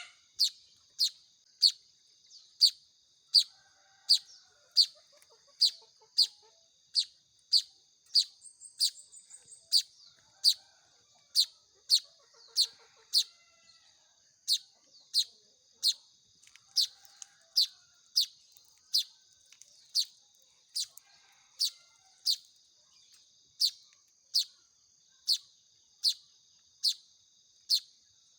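Weaver bird (manyar) chick giving sharp, high begging chirps, repeated evenly a little more than once a second, over a steady high-pitched ringing tone.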